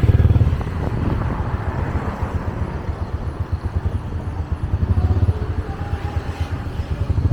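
Motorbike engine running with a rapid pulsing beat, loudest at first, easing after about a second and picking up again around five seconds in.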